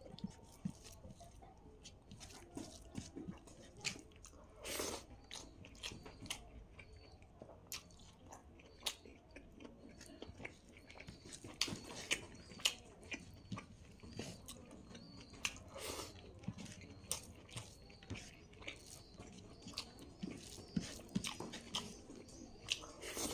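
Close-miked chewing and biting of food, many short wet mouth clicks at an uneven pace.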